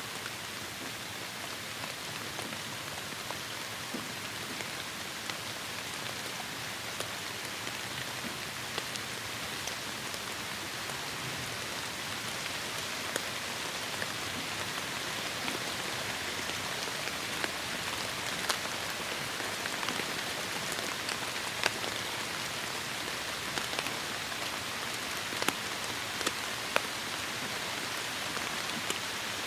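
Steady heavy rain hiss, with sharp individual drops ticking on a surface; the drop strikes grow more frequent and a little louder in the second half.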